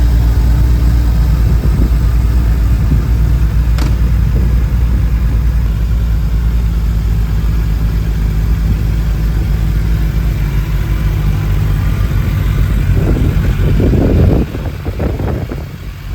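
Suzuki Hayabusa's inline-four engine running steadily at idle, then a brief change about thirteen seconds in, after which the sound falls quieter.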